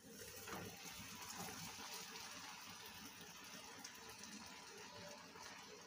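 Stuffed aloo paratha laid on a hot oiled iron tawa, frying with a faint, steady sizzle that starts as the dough goes down.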